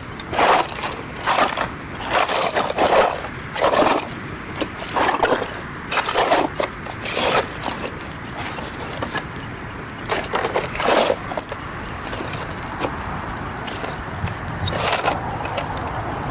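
Campfire burning, with a run of irregular crunching, scraping noises over the first ten seconds or so, then a steadier hiss with one more crunch near the end.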